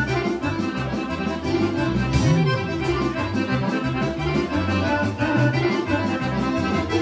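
Serbian kolo folk dance music played instrumentally by a band, with accordion prominent over a steady, quick dance beat.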